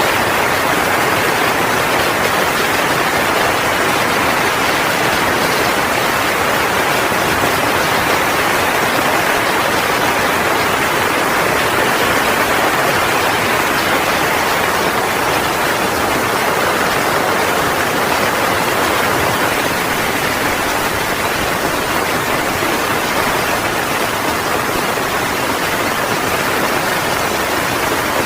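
Heavy rain falling steadily, a dense, even hiss with no thunderclaps.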